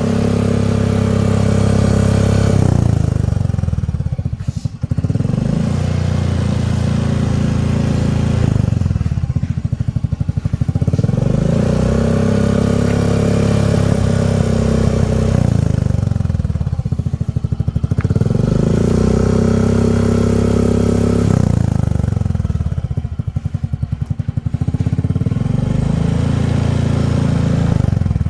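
Yamaha Grand Filano scooter's single-cylinder engine through an aftermarket TZM-replica exhaust, revved and held about five times, dropping back toward idle between revs.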